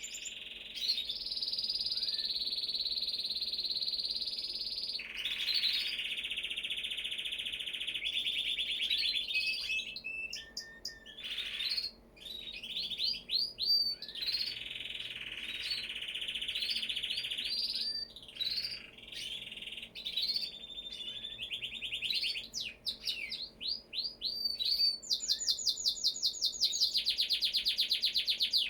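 Domestic canary singing: a long song of rapid rolling trills, each held for a few seconds at a steady pitch, broken by short chirps and upswept notes. Near the end it changes to a fast series of separate, evenly repeated notes.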